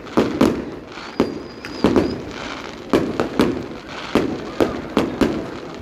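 Fireworks display: aerial shells bursting in a rapid, irregular run of bangs, about two to three a second, each trailing off in a low rumble. A faint high whistle runs for about a second, starting about a second in.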